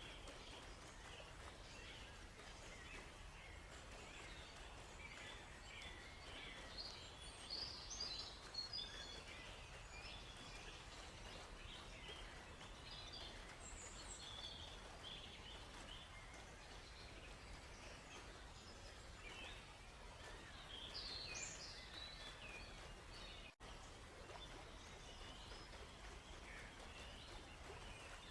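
Forest birds chirping and trilling in scattered short calls, busiest in two spells, over a faint steady background hiss. The whole thing cuts out for an instant about two-thirds of the way through.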